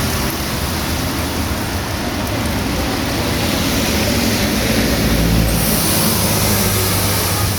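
Heavy rain falling steadily on a street, with the low hum of a vehicle engine going by on the wet road, strongest about five to seven seconds in.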